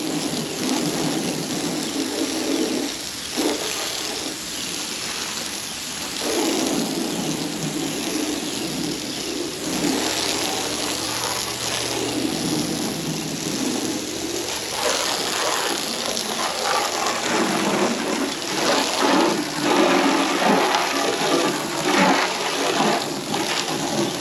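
Water from a hose spraying onto a car's roof and body, rinsing off soap. The rushing spray swells and fades as the stream moves over the panels.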